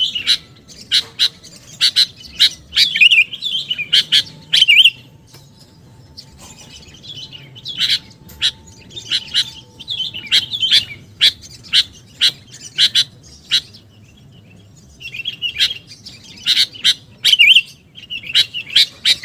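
Sooty-headed bulbul (kutilang) calling in rapid runs of sharp, high chirps, with short pauses about five and fourteen seconds in.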